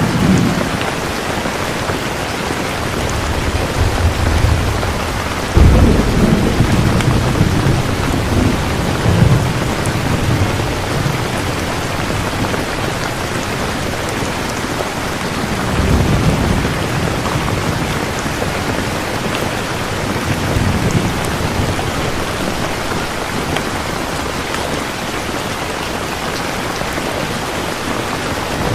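Steady heavy rain with rolling thunder. A sudden deep rumble about six seconds in is the loudest moment, and fainter rumbles follow twice more.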